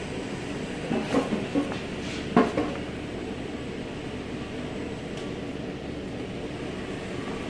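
Steady mechanical hum, with a few short knocks between about one and two and a half seconds in.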